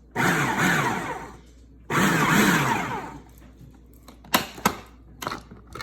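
Food processor pulsed twice, two bursts of about a second each with the motor spinning up and winding down, chopping salsa ingredients into chunks. A few sharp clicks follow near the end.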